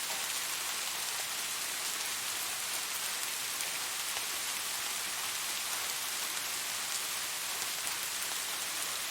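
Steady rainfall, an even hiss of drops with fine scattered patter on a surface.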